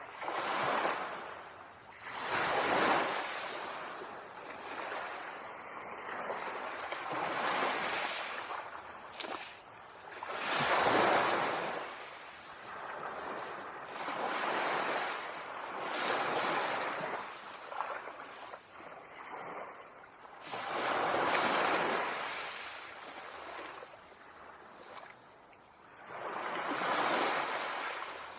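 Ocean waves breaking on a beach: surges of surf that swell and fall away again every few seconds, some breakers louder than others.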